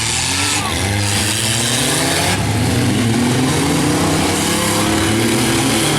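Engines of several compact trucks and vans running and revving at once, their pitches rising and falling over each other, above a steady wash of noise.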